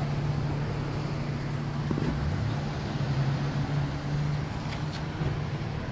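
Steady low hum of an idling Ford Police Interceptor Utility SUV, with faint street traffic.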